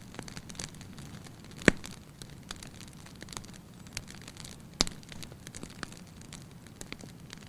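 Wood fire burning in a fireplace: a low steady rush of flame with scattered crackles and two loud pops, about two seconds in and again near five seconds.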